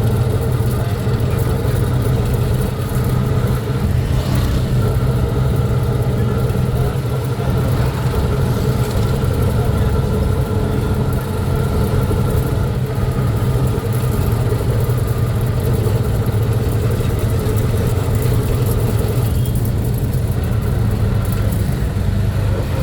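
A road vehicle's engine running steadily under way, with a constant hum and road noise.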